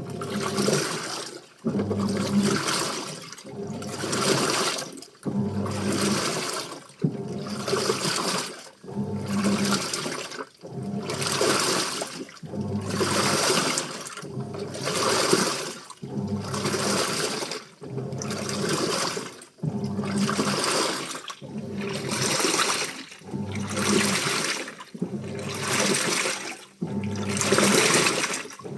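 Washing machine in its wash cycle: water and clothes sloshing in the turning drum in regular surges about every second and a half to two seconds, each followed by a short pause.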